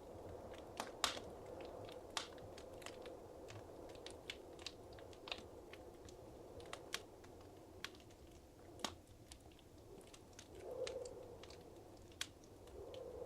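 Wood fire crackling in a fireplace: irregular sharp pops and snaps over a soft, steady rush of flame, which swells briefly near the end.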